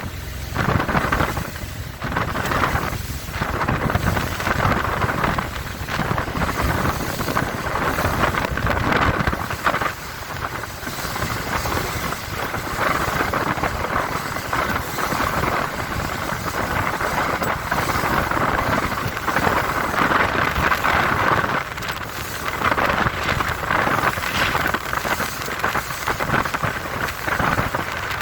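Four Winns Liberator powerboat running fast through rough chop: the engine's steady drone under heavy wind buffeting on the microphone and rushing water, rising and falling in gusts.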